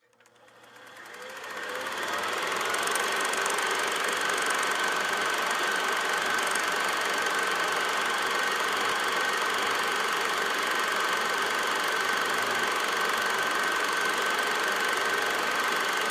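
A vehicle engine running steadily, fading in over the first two seconds, with a steady high whine through it.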